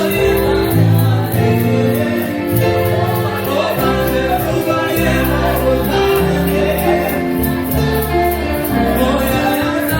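Gospel music: a choir singing over instrumental accompaniment with a bass line.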